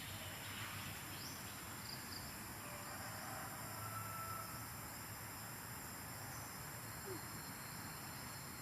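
Faint, steady outdoor ambience with a continuous high-pitched insect drone.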